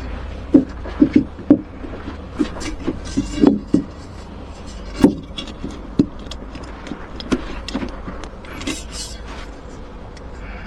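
A run of irregular knocks and clunks of hard parts being handled and set down, several in quick succession in the first second and a half and a sharp one about five seconds in, over a steady low hum.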